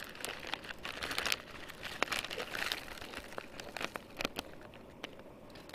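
Crinkling and rustling of a dehydrated spaghetti meal pouch being opened and handled: a run of sharp crackles that thins out toward the end.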